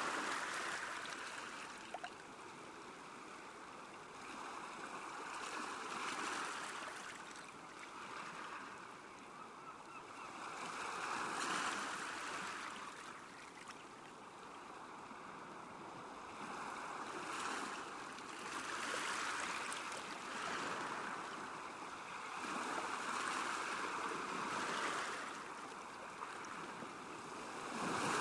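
Small waves lapping on a lakeshore, the wash rising and falling every few seconds.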